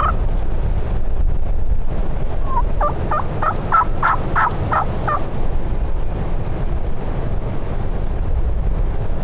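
Wild turkey gobbler gobbling: a rapid rattling run of about ten notes, about three seconds in and lasting roughly two seconds, over a steady low rumble.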